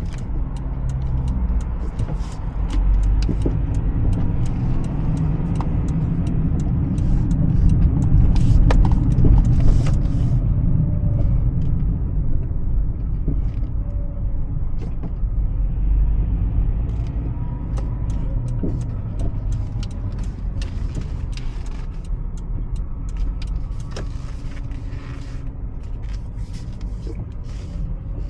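Honda CR-V driving slowly: a steady low engine and road rumble that swells about eight seconds in and then eases off, with scattered light clicks and knocks.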